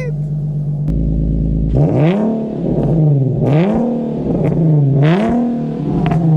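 Nissan 370Z's 3.7-litre V6 idling through its exhaust, then revved in repeated blips from about two seconds in, each rev rising and falling back, about one every second and a half.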